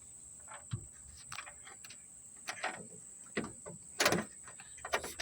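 Irregular metallic clicks and knocks from handling and fastening a car's trunk latch, about six in all, the loudest about four seconds in.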